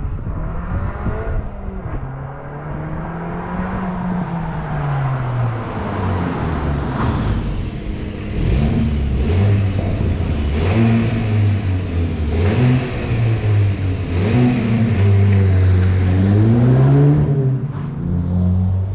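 Volkswagen Golf GTI's turbocharged 2.0 TSI four-cylinder engine and exhaust pulling under acceleration, the revs climbing and then dropping again several times as the six-speed manual is shifted. It is louder from about halfway through, with the revs rising and falling more often.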